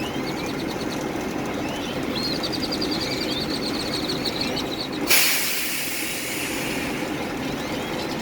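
Diesel bus engine idling steadily. About five seconds in, a sudden loud hiss of compressed air venting fades over a couple of seconds: the air-operated waste-tank gate being tried, and its electronic valve has failed.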